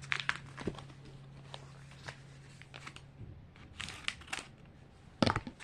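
A small plastic blind-bag packet being handled and torn open by hand: scattered crinkles and light clicks, with a sharper, louder crackle about five seconds in. A faint low hum runs under the first three seconds.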